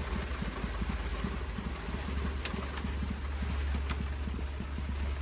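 Heavy rain and strong wind heard from inside the back of a pickup truck: a steady low rumble under an even hiss of rain, with a few light ticks about halfway through.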